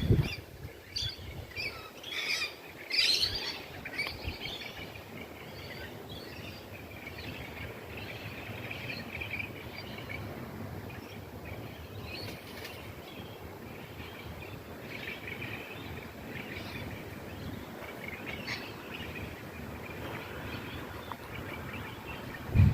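Birds chirping: a cluster of short, high calls in the first few seconds, then fainter twittering over a steady low background noise.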